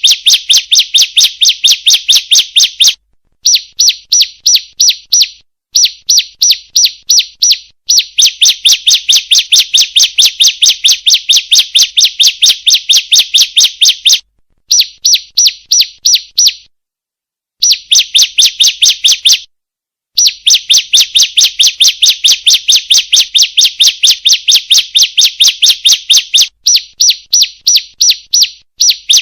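Female ciblek (bar-winged prinia) calling: a fast, even string of sharp high chips, about five a second, in long runs that break off briefly several times. It is a recorded call played as a lure to set other ciblek singing.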